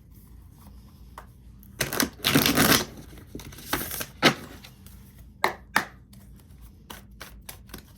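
Tarot cards being shuffled and handled: a papery rustle of cards sliding against each other about two seconds in and again briefly near four seconds, then scattered light taps and clicks of cards.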